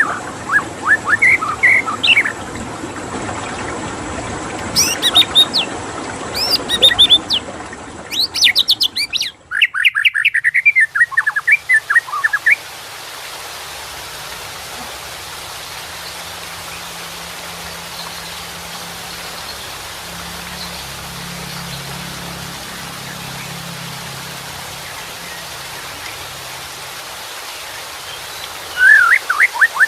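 White-rumped shama singing quick, varied whistled phrases over the steady rush of running water. The song stops about twelve seconds in, leaving only the water, and starts again near the end.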